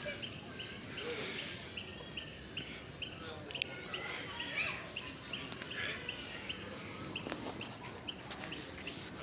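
Night-time rural ambience: a small creature chirping in a steady rhythm, between two and three chirps a second, over a continuous high insect whine, with a few sharp pops.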